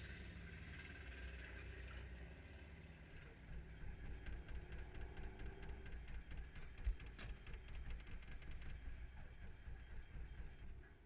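Low, steady rumble of a running engine, with a quick irregular ticking through the middle.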